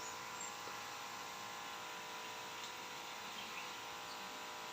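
Faint, steady outdoor background hiss with a few faint, brief bird chirps.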